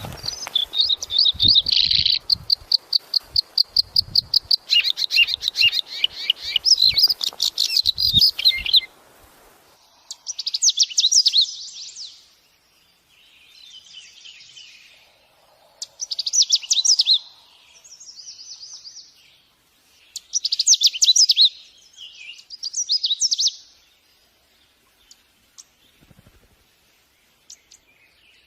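Birds singing: for the first nine seconds or so a fast, even run of high chirps, with a few low thuds underneath. Then short bursts of rapid high notes come every two or three seconds, with brief pauses between them.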